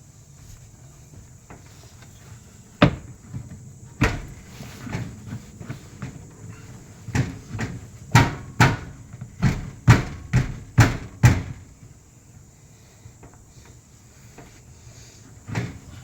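Metal clunks and knocks from the exhaust pipe and muffler being forced and worked back along the joint under the car. The knocks come singly at first, then in a quick run of about two a second, and stop a few seconds before the end.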